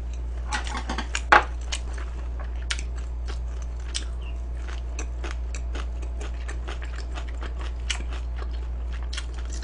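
Close-miked chewing, with many small irregular crackling clicks several times a second, over a steady low hum.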